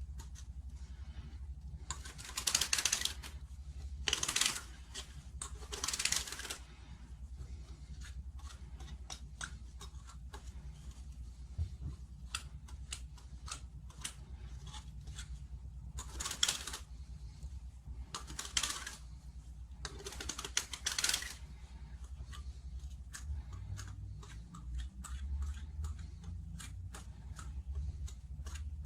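A knife scraping around the cut edge of plastic pipe in short strokes, deburring it, with light clicks and taps of handling in between.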